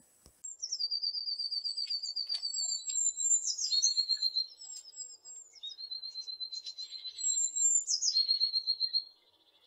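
A bird singing high, rapid trills in three phrases. Each phrase opens with a quick note dropping from a higher pitch and then holds a fast trill on one pitch for one to two seconds. The song starts about half a second in and stops near the end.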